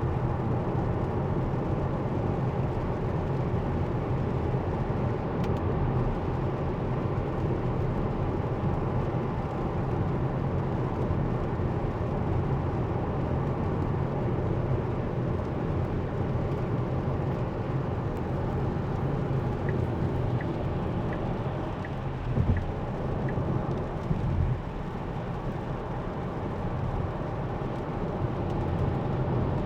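Steady road and tyre noise inside a Tesla's cabin, driving at speed on a wet freeway in the rain. About twenty seconds in, six faint regular ticks come from the turn signal, roughly one and a half a second.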